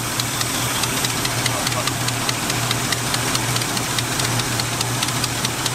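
Worn old truck engine idling steadily through a 750 Holley four-corner-idle carburetor, with a faint rapid ticking. Its idle mixture is still rich and is being leaned out by turning the mixture screws in.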